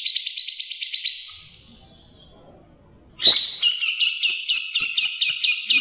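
White-rumped shama (murai batu) song. A fast, buzzy trill fades out about a second and a half in, and after a short pause a new phrase starts abruptly just past three seconds: a rattling trill of about six notes a second.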